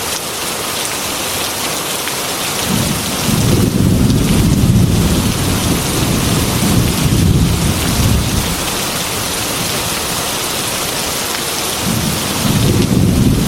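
Heavy rain hissing steadily against a glass window. Thunder rumbles in about three seconds in, runs for several seconds and dies away, then a second rumble swells near the end.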